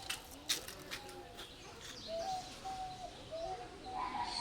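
Birds calling: short, level notes repeated from about two seconds in, after a few sharp clicks in the first second.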